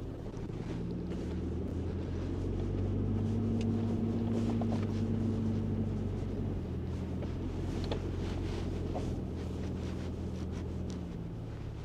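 A motor running with a steady low hum that starts abruptly, shifts slightly in pitch about halfway through and dies away near the end.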